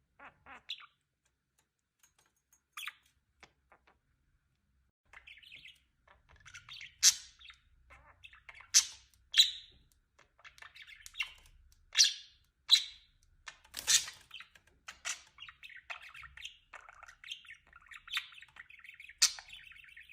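Pet budgerigar chirping and squawking: a few scattered calls at first, then frequent sharp, loud chirps with soft warbling chatter between them through the second half.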